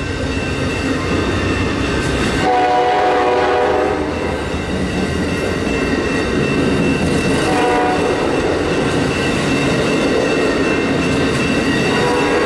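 Amtrak passenger train rolling through a grade crossing, wheels running over the rails, with the train's horn sounding a steady chord about two and a half seconds in for over a second and a short blast near eight seconds. The crossing's electronic bells ring steadily underneath.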